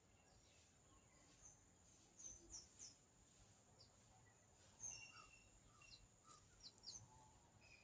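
Faint outdoor ambience: scattered short, high bird chirps, a few falling in pitch, over a steady thin high-pitched drone.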